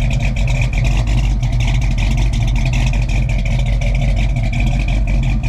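Chevrolet small-block 350 V8 in a C10 pickup idling steadily through a new 2.5-inch stainless exhaust with Flowmaster 40 Series mufflers.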